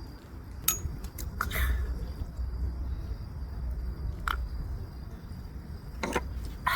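A handful of sharp, irregular clicks and taps over a steady low rumble.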